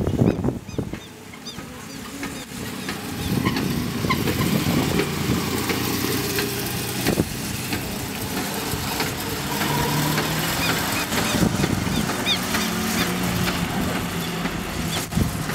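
Car engine running as the car drives slowly around, its pitch rising and falling a little. There are short high chirps now and then.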